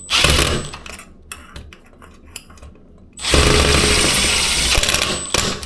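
Cordless drill-driver running in two bursts, a short one at the start and a longer steady one of about two seconds later on, driving the screws that fasten a ceiling fan blade. Light clicks and knocks of handling the screws and blade fall between the runs.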